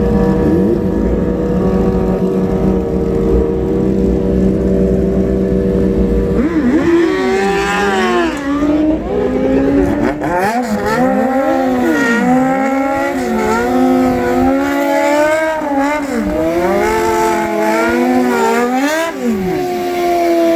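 Sport motorcycle engine running at a steady note, then revved up and down over and over from about six seconds in, quick throttle blips one after another.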